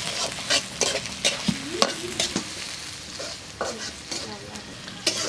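Onions, green chillies and a bay leaf frying in oil in a black iron karai, sizzling steadily, while a steel spatula stirs them, scraping and clicking against the pan again and again.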